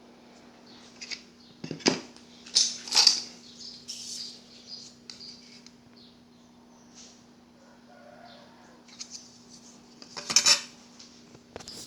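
Metal objects clinking and clattering, with a few sharp knocks near 2 s, 3 s and 10 s, over a faint steady hum.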